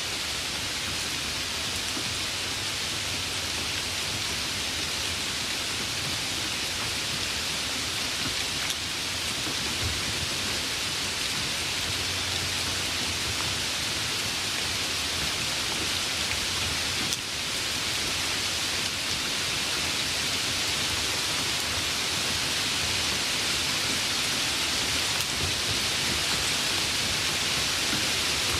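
Steady, even rain hiss, growing slightly louder toward the end, with a faint low rumble of distant thunder around the middle.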